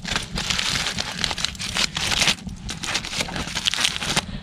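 Foil wrapping crinkling and rustling as it is peeled open from a sandwich toasted on a campfire.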